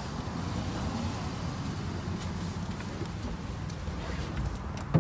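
Steady low vehicle-and-outdoor rumble with a few faint clicks, ending in one sharp thump of a pickup truck door shutting.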